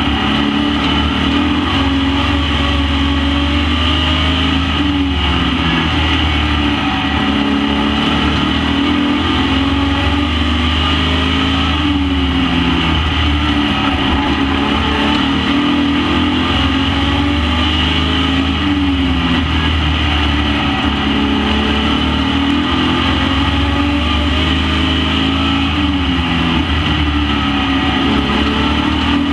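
Super Pro Truck race engines running laps at full throttle. Their pitch rises and falls over a few seconds at a time, again and again, with no break.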